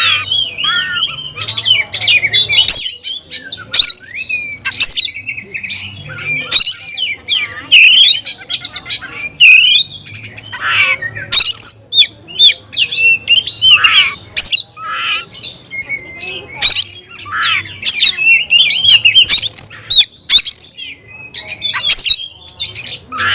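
Oriental magpie-robin (kacer) singing in full, continuous song. It is a rapid, unbroken run of varied high whistles, chips and harsh squawking notes with only brief pauses.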